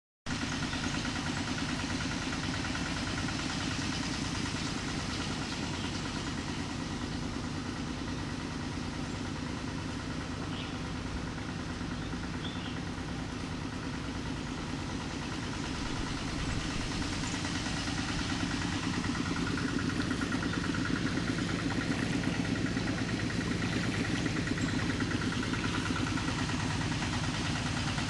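An engine running steadily with a fast, even low pulse, growing a little louder about two-thirds of the way through.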